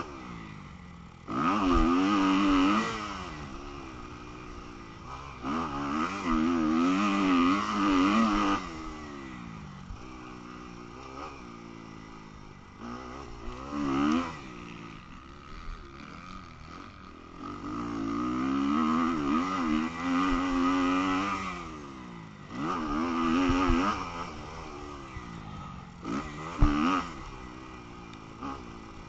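Motocross bike engine racing, revving hard in repeated bursts with the pitch climbing and dropping as the throttle is opened and closed, in about six loud pulls with quieter stretches between. A few sharp thumps fall among them.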